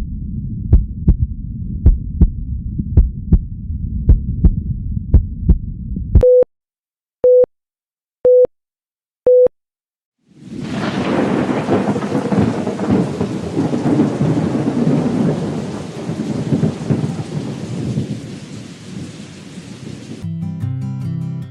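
Layered sound effects: a low rumble with regular sharp clicks, then four short beeps about a second apart, then after a brief silence a long, loud rushing roar like a storm. Guitar music begins near the end.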